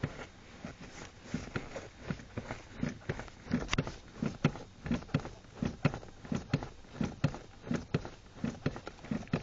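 Accelerator pedal of a Ford Explorer pumped repeatedly by a booted foot, giving a run of short knocks about two to three times a second, with no engine running.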